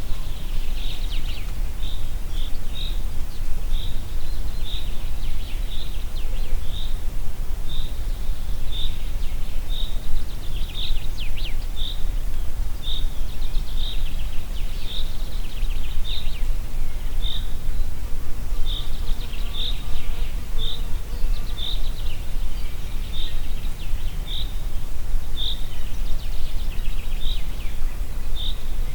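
Wind blowing through a forest as a steady low rumble, with a bird repeating a short high note about once a second and brief bursts of other birdsong.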